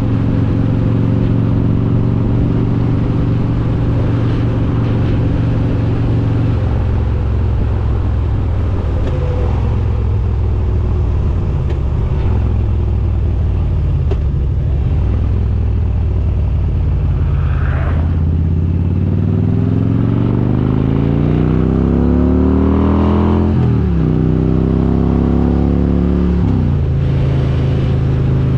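Harley-Davidson Road King's S&S 95-cubic-inch V-twin with Super Stock heads running on the road, steady at first with a drop in pitch about a quarter of the way in. Past the middle it accelerates, rising in pitch, with two quick upshifts where the pitch falls sharply before it settles at a steady cruise.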